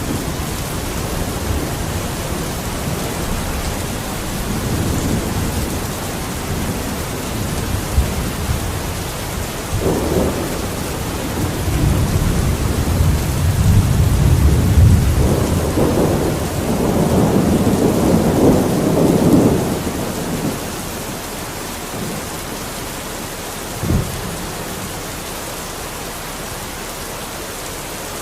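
Steady rain with rolling thunder. Low rumbles swell and fade over the hiss of the rain, the biggest about two-thirds of the way in, then one short sharp thump; the rain runs on evenly.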